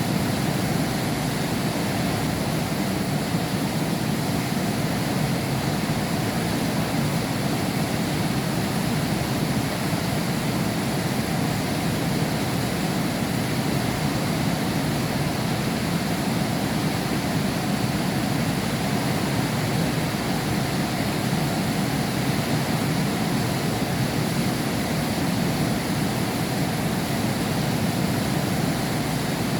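Heavy rain falling in a steady downpour, an even rushing noise with no single drops or thunder standing out.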